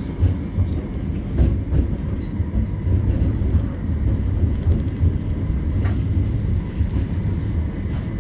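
CAF Urbos 3 tram of the West Midlands Metro running between stops, heard from on board: a steady low rumble of wheels on rail with a few clicks and knocks.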